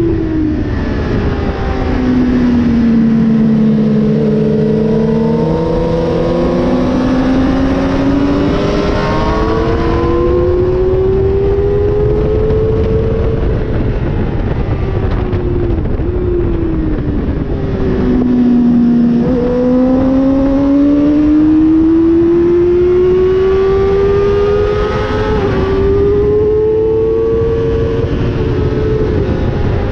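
Racing motorcycle's engine at track pace, heard onboard: the revs drop sharply as it brakes for corners about a second in and again past the middle, then climb in long rising glides with quick steps at the upshifts. Wind rushes loudly over the microphone throughout.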